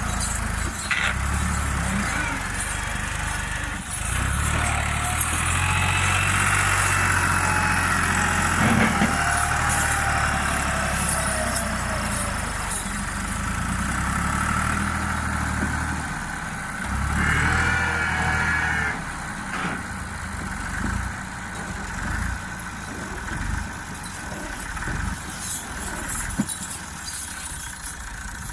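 Fiat 640 tractor's diesel engine running hard, its pitch rising and falling, with a loud surge a little past halfway. It then drops to a lower, uneven idle for the last third.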